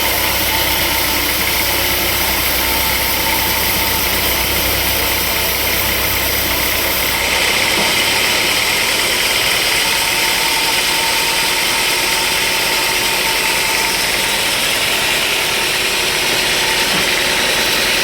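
Sawmill machinery running with a loud, steady mechanical noise. About seven seconds in, the deep rumble drops away and a higher hiss grows louder.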